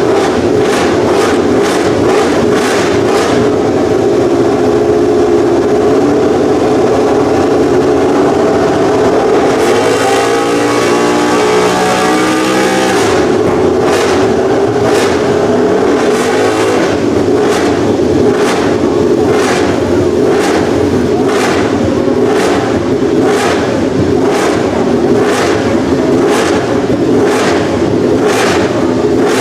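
Honda RC213V MotoGP race bike's V4 engine running loud through its exhaust, with a regular pulse about twice a second; it revs up about ten seconds in, then falls back over the next few seconds.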